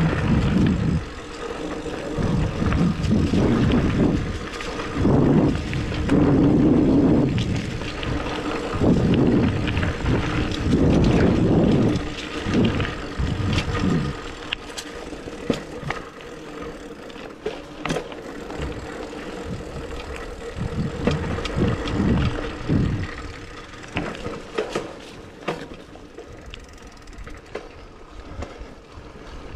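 Hardtail mountain bike ridden along a dirt singletrack trail: rough rumble of tyres and wind on the microphone, loudest through the first half, then quieter riding with scattered clicks and rattles.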